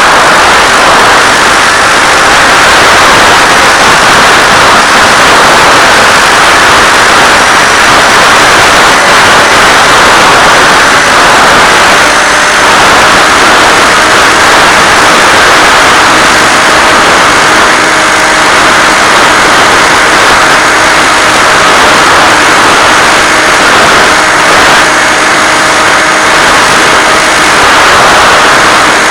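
Steady, loud rushing hiss with a few faint steady tones underneath, carried on the Finwing Penguin FPV plane's analog video-link audio.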